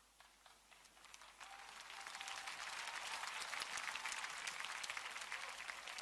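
Congregation applauding, swelling from about a second in into steady clapping.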